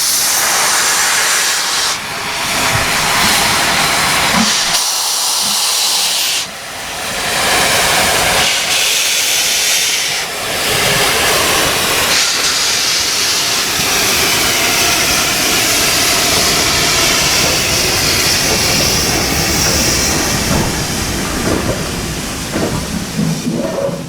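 Steam locomotive letting off steam: a loud, continuous hiss that eases briefly a few times.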